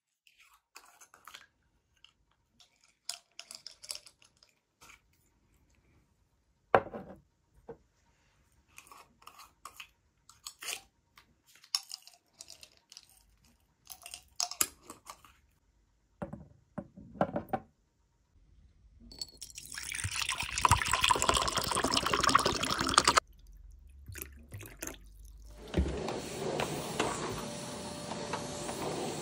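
Light knocks and clicks of household items being handled, then about four seconds of running water, then a steady noisy whir.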